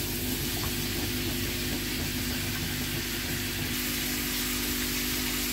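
Chicken liver and gizzards sizzling steadily in oil in a frying pan over a gas flame, being slowly fried dry with no water added, cooking in their own juices. A steady low hum runs underneath.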